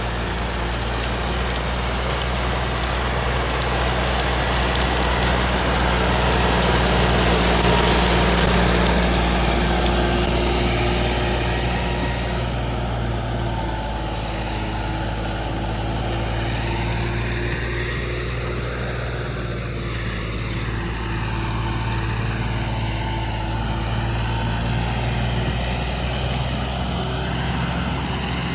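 Tractor diesel engine running steadily under heavy load while pulling harrows, rising a little in level partway through.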